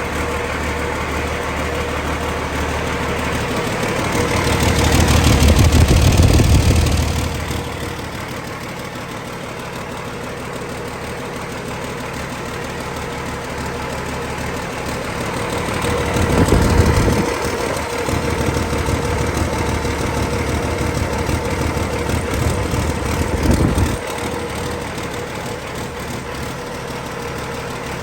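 2005 Cummins ISX 15-litre six-cylinder turbocharged diesel engine on a test run, idling and revved up: it swells about four to seven seconds in, then again about sixteen seconds in, holding higher until it drops back suddenly a few seconds before the end.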